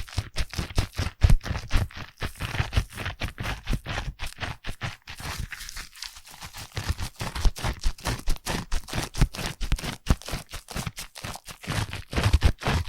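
Foam crackling and popping in rapid, uneven clicks, with soft low thuds under it.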